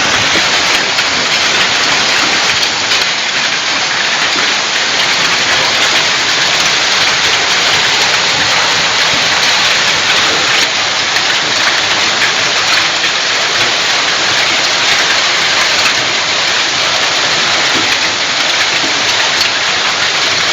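Heavy rain pouring down steadily during a storm, a loud, even hiss that does not let up.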